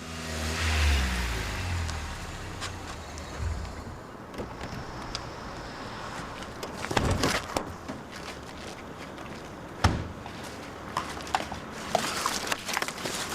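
A motor vehicle's engine rumbling as it passes, its pitch falling over the first few seconds, then steady street noise with a couple of sharp knocks.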